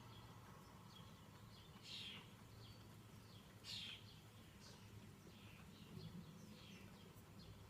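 Faint bird calls outdoors: a series of short, high chirps, the two clearest about two seconds and about four seconds in, over a low steady hum.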